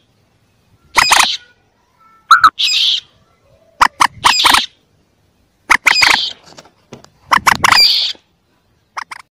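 Young common moorhens calling: a string of short calls, about one every second or so, each lasting about half a second.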